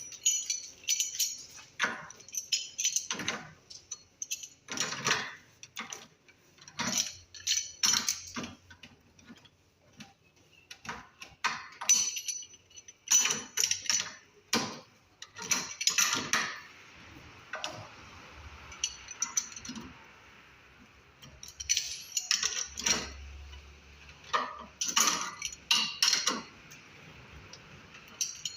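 Repeated metallic clinking and rattling of small hard objects being handled, in irregular clusters with a quieter stretch past the middle.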